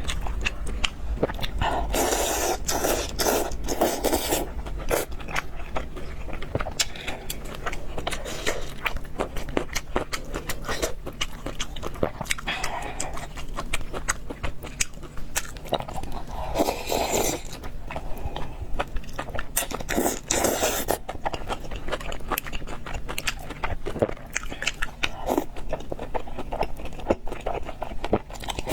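Close-up eating sounds: chewing and biting with many small wet clicks, broken several times by louder noisy bursts lasting about a second or two.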